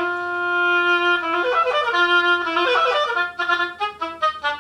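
Oboe playing a passage: a held note, a quick run, then a string of fast, short tongued notes. The tonguing is quick but not clean in the low register, "too scuzzy".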